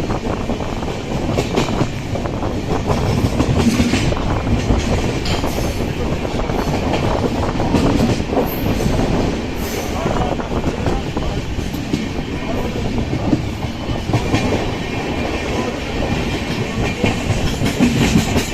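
Coromandel Express passenger train running at speed: a steady loud rumble of the coaches, with wheels clacking over rail joints.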